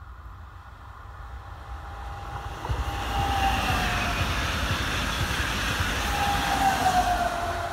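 A train passing close by: the sound builds over the first few seconds into a rumble, with whining tones that slide down in pitch as it goes past.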